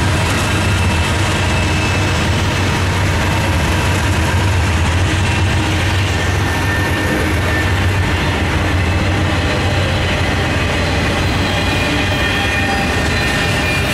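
Norfolk Southern freight train passing: the diesel locomotives' steady low engine drone, then the double-stack container cars rolling by with a continuous rumble of wheels on rails.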